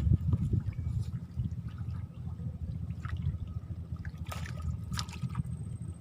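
Water trickling and sloshing over a steady low rumble, with a few faint clicks.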